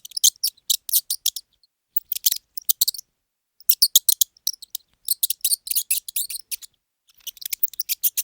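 Mouse squeaking: five bursts of rapid, very high-pitched squeaks, with short gaps between them.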